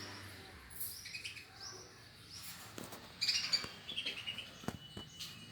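Pet lovebirds chirping in a string of short, high calls, loudest a little past the middle, with a few sharp clicks in the second half.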